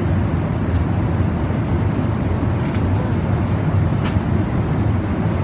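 Steady low rumble of an airliner's cabin noise in flight: engines and rushing air, with a few faint clicks.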